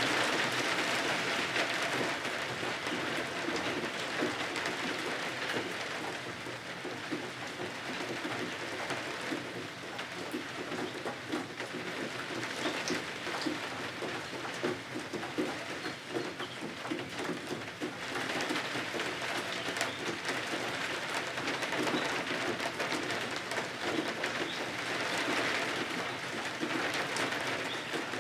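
Steady rain falling on a roof and windows, swelling louder at the start and again for the last ten seconds.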